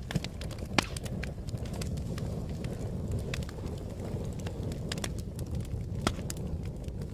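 Wood fire crackling: a steady low roar of flame with scattered sharp pops, two louder ones about a second in and about six seconds in.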